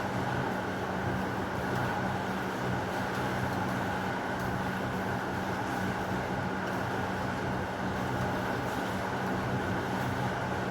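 Heavy rain falling steadily as a dense, even hiss, with a steady low hum underneath.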